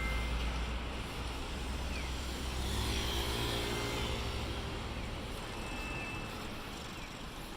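Electric train running: a steady low rumble with a motor hum that rises and falls around three seconds in.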